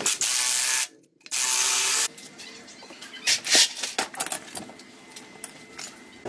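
Two short bursts of hissing spray, each under a second and cut off sharply, followed by light clicks and rustling.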